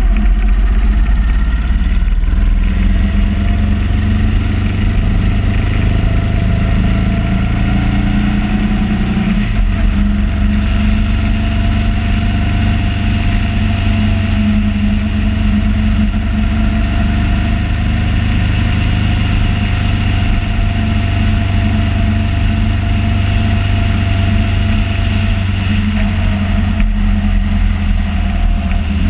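Motorcycle engine running under way at road speed. Its pitch climbs for a few seconds, then drops sharply about nine and a half seconds in as it shifts up a gear, and then holds steady.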